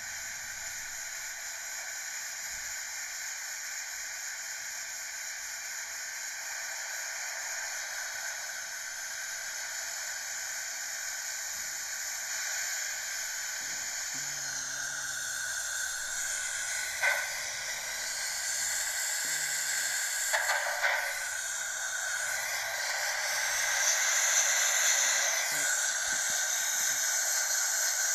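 WashTec SoftCare Pro rollover car wash running, a steady hissing noise that slowly grows louder. A few short knocks come a little past the middle.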